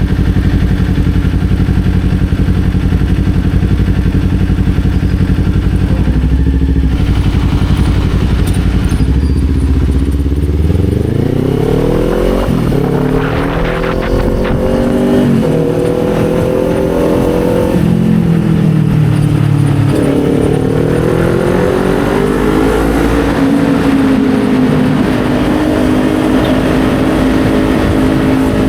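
Kawasaki Z400's parallel-twin engine from the rider's seat. It runs low and steady for about the first ten seconds, then pulls away with the pitch climbing in several rises, dropping between them at gear changes. It holds fairly steady near the end.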